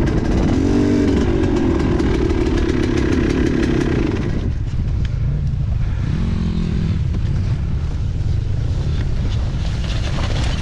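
Enduro motorcycle engine running hard at high revs, then dropping off about four seconds in, with another brief rev a couple of seconds later.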